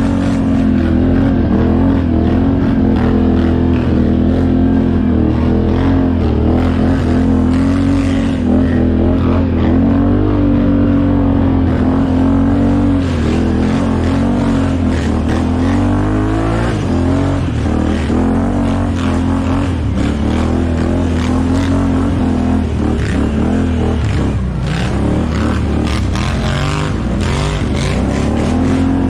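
ATV engine running under varying throttle, its steady drone wavering up and down in pitch, with a few brief dips and swells.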